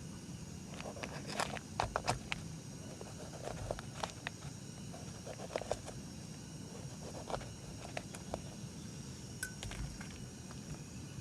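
Scattered short rustles and taps, over a steady high chirring of insects.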